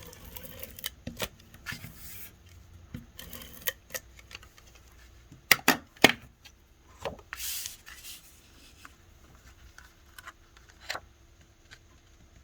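Cardstock and a dry adhesive being handled on a craft table: scattered rustles and light taps, with two sharp clicks about five and a half seconds in and a short papery rustle soon after.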